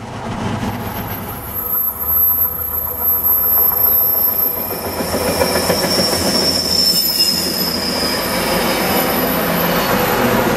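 Passenger train rolling past on the rails, with a thin, high-pitched wheel squeal that is strongest midway through.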